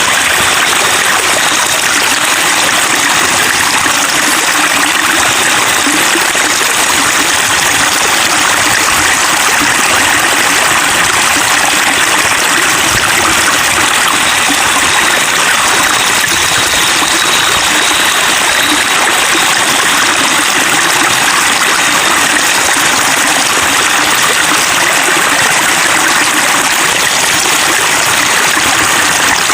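Running water babbling and trickling steadily, an even, unbroken rush like a stream.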